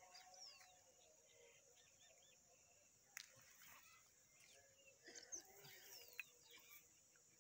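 Near silence with faint bird chirps and short falling calls over a steady high-pitched hiss. A soft knock comes a little past three seconds and another near the end.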